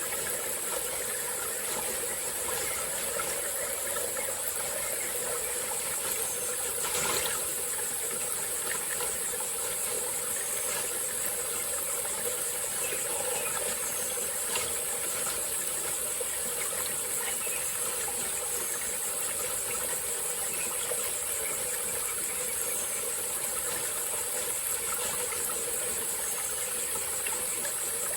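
Small tropical forest stream flowing steadily, under a constant high-pitched drone of insects. One brief louder sound comes about seven seconds in.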